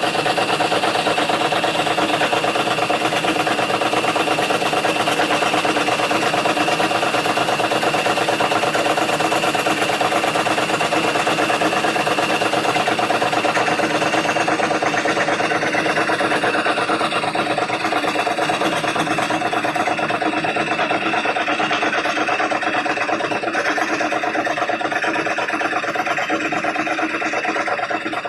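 Wood scroll saw running steadily, its blade driven up and down by the motor in a continuous even hum.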